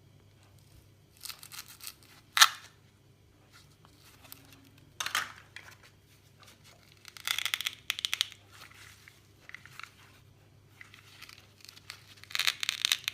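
Crisp tearing and crackling in irregular bursts, as of fruit being broken apart, with a sharp snap about two and a half seconds in and a longer run of crackling near the end.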